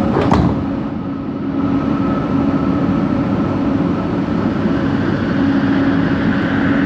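Light-rail train running, heard from inside the coach: a steady rumble with a low steady hum and a higher whining tone that strengthens near the end, which is the odd motor noise the rider traces to coach 4. A single sharp clack comes about a third of a second in.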